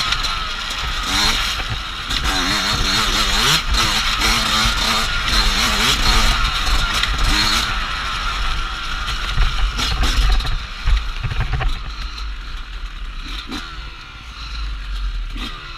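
Dirt bike engine revving up and down over rough ground, with clattering and knocks from the bike. The engine is louder for the first ten seconds and quieter after about twelve seconds.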